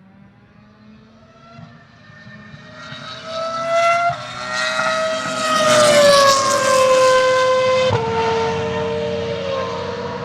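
Renault R25's 3.0-litre V10 Formula 1 engine at full throttle, approaching from faint to loud, with an upshift about four seconds in. It is loudest as the car passes, its high-revving pitch sliding down as it goes by, and it steps down again at another gear change near the end.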